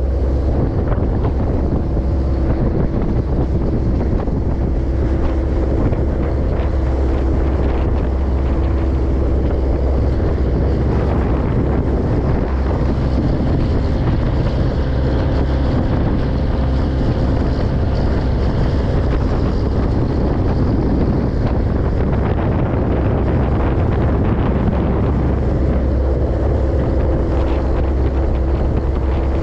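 A Japanese bottom trawler's diesel engine running steadily at a constant speed, a deep rumble with a few steady tones, with wind buffeting the microphone.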